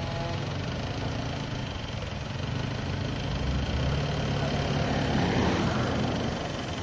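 An engine running steadily, growing a little louder about four to five seconds in.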